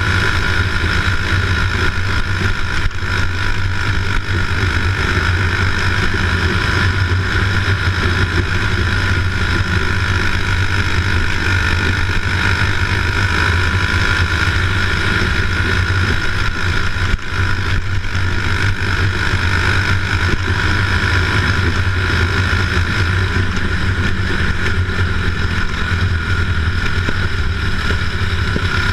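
A motor running steadily at an even speed, with a constant low hum and a higher steady tone above it.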